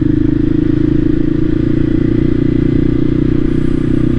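Voge 300 Rally's single-cylinder engine running at a steady, low engine speed while the motorcycle is ridden slowly.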